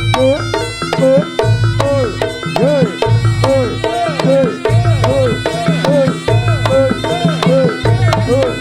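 Reog gamelan ensemble playing: dense, rapid drum strokes over a short rising-and-falling melodic figure that repeats about twice a second, with low sustained tones coming in and out.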